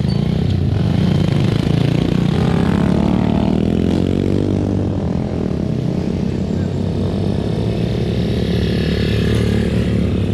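Motorcycle engine running steadily, with a second engine note gliding in pitch between about two and five seconds in.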